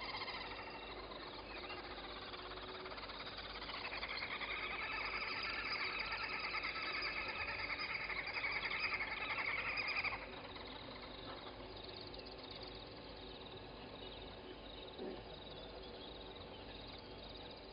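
Chorus of frogs and birds calling at a waterhole. A louder, rapid trilling call starts about four seconds in and stops abruptly about ten seconds in, and a short low sound comes near the end.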